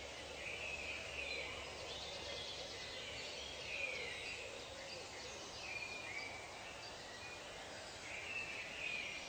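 Tropical nature ambience: birds calling in short repeated phrases, some falling in pitch, over a steady background hiss.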